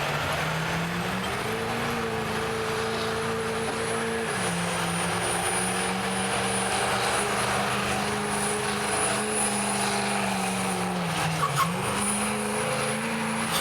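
Stock diesel pickup truck engine held at high revs under load pulling the sled, with a steady high turbo whistle over it. The revs rise about a second in, sag briefly about four seconds in and again near the end, then pick back up.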